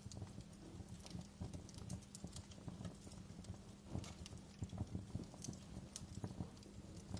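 Wood fire in a fireplace crackling, with irregular pops and snaps over a steady low rumble of the flames.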